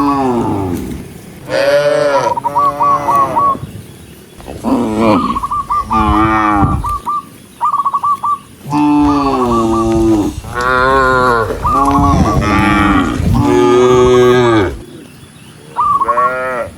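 Cattle mooing, about ten long calls in quick succession at different pitches from several cows.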